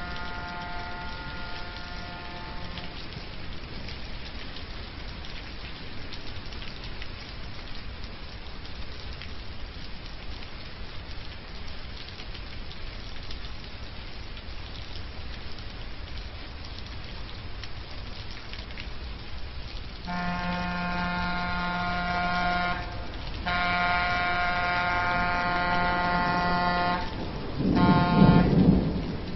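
Steady rain hiss. About twenty seconds in, a steady low droning tone joins it and keeps going, with a couple of brief breaks.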